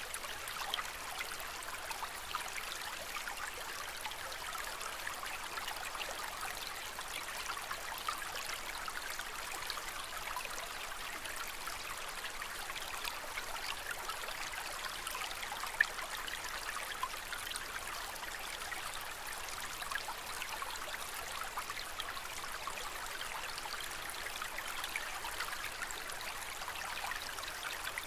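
Aquarium water trickling steadily, with a fine patter of small splashes. There is one sharp little click about halfway through.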